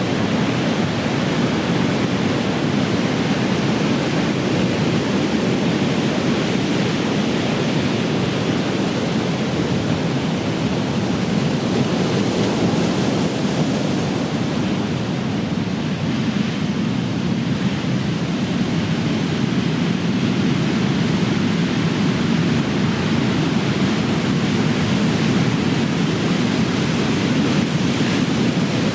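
Ocean surf: large waves breaking in a continuous, steady wash of noise, with the hiss thinning a little about halfway through.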